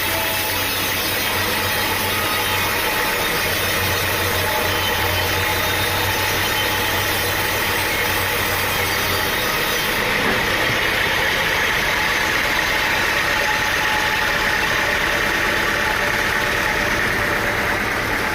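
An engine running steadily at a constant speed, with no change in pace.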